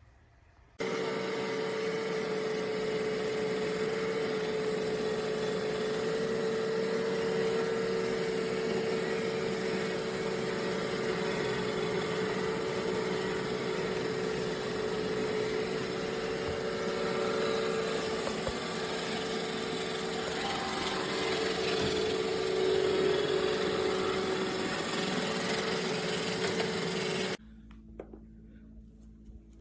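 iRobot Roomba Combo i5 robot vacuum running, a steady motor hum with a whine. It cuts in suddenly about a second in and cuts off shortly before the end.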